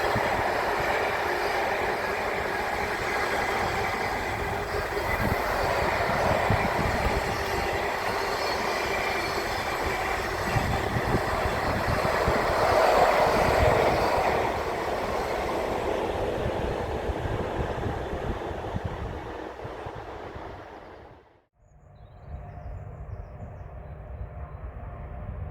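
Freight train passing: wagons rolling on the rails with wheel clatter and noise, loudest about halfway through, then fading. Near the end it cuts off abruptly to a quieter, steady low rumble.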